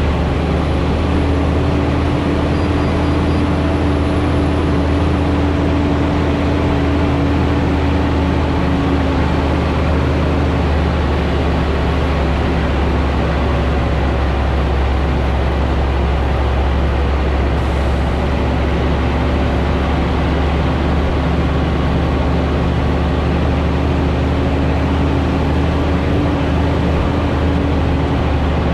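A Scania G440 truck's 13-litre inline-six diesel runs steadily under a load of about 110 tonnes on a downhill descent. It makes a loud low drone with a held mid-pitched tone over it; the tone fades about nine seconds in and returns after about twenty seconds.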